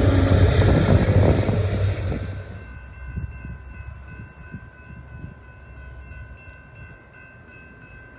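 A freight train's diesel locomotive passing and pulling away: the engine's rumble and the rush of wheels are loud for the first two and a half seconds, then fade fast. A faint steady high ringing is left behind.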